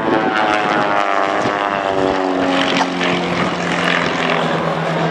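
Pitts S-1D Special aerobatic biplanes flying past, their engine and propeller drone sliding down in pitch over the first few seconds as they go by, then holding a steady lower note.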